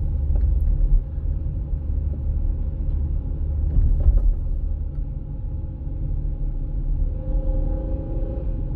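Steady low rumble of a car in motion, heard from inside, with faint steady tones rising a little near the end.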